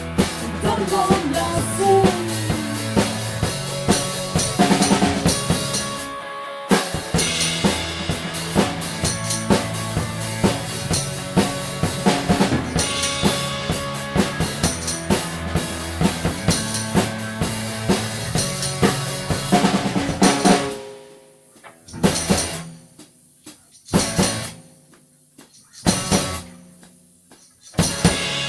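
Instrumental rock band music, with a drum kit keeping a steady beat under bass and guitars. About two-thirds of the way through, the full band stops and plays four separate accented hits about two seconds apart, with near-quiet gaps between them.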